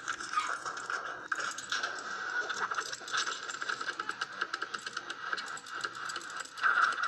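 Rapid, irregular mechanical clicking and rattling over a steady high hum.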